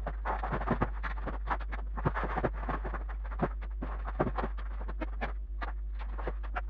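Renovation work in an old house: many quick, irregular knocks, clicks and scrapes over a steady low hum.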